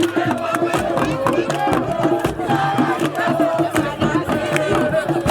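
A group of voices chanting and singing together, with sharp rhythmic beats such as hand claps or drum strokes.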